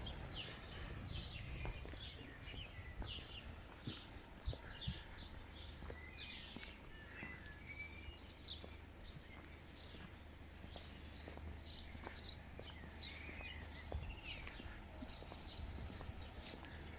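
Small birds chirping, many short high calls in quick succession throughout, over a faint steady low hum.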